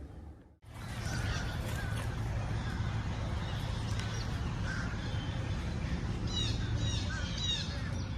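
Outdoor birds chirping and calling over a steady low rumble, starting after a brief drop to silence about half a second in, with quick high trills near the end.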